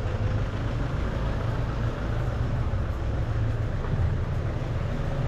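Steady low rumble of vehicle noise with no pauses.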